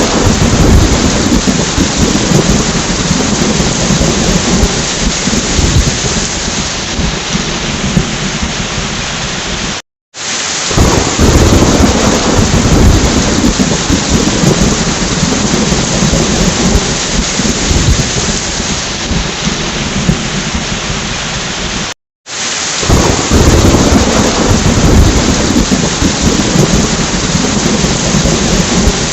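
Heavy rain with thunder rumbling under it. The recording is looped: it cuts out abruptly for a split second about 10 and 22 seconds in and starts again.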